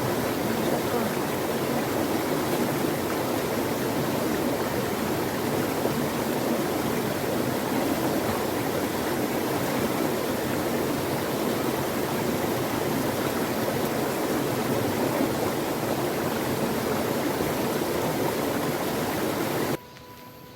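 Mountain stream rushing over rocks in a steady, full flow from plenty of water. It cuts off suddenly near the end.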